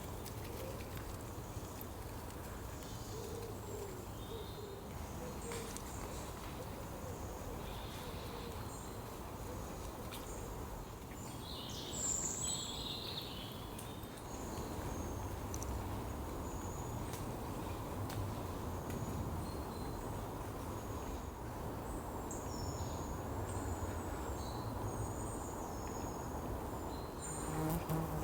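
Woodland ambience: small birds give short, high chirps and calls scattered throughout, with one louder call about twelve seconds in, over a steady low background rumble.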